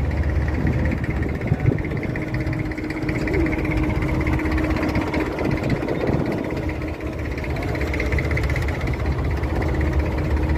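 Inboard diesel engine of an abra water taxi running steadily under way, a continuous low drone with a steady hum.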